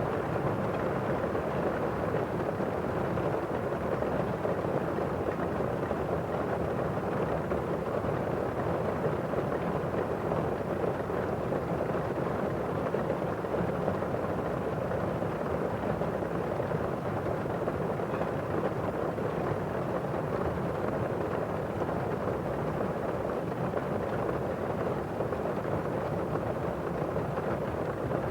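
Heavy rain drumming on a roof, heard muffled from inside a house as a steady, dense hiss with little treble.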